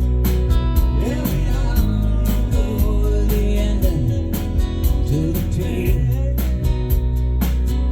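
Live band playing a country-rock song: guitars and bass over drums with steady cymbal hits several times a second, and a lead line sliding up and down in pitch over them.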